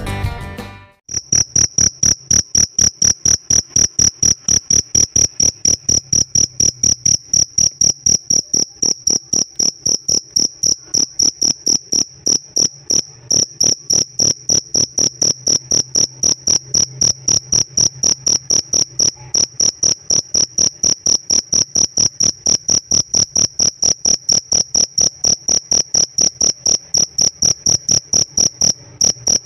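A pet cricket (jangkrik) chirping steadily: a high, clear chirp repeated evenly, about three times a second.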